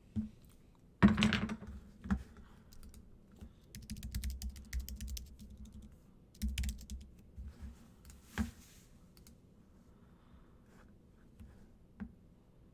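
A series of light clicks and taps in quick runs, with a louder knock about a second in and another near eight and a half seconds.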